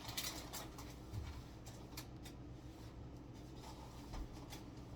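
Faint rustling and light clicks of plastic packaging being handled, in short scattered bursts.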